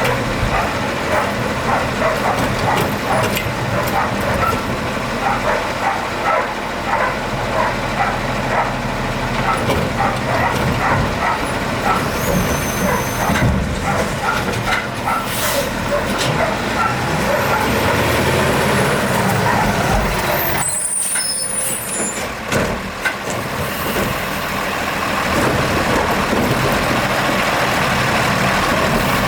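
Garbage truck working a route: its diesel engine running under steady load, with repeated knocks and clatter. The sound breaks off briefly about two-thirds of the way through.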